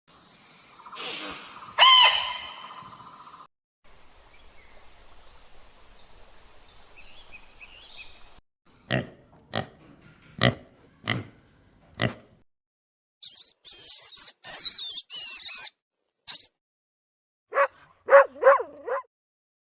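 A run of assorted animal sounds: five short grunt-like calls in quick succession, then a burst of high chirping, then three short pitched calls near the end.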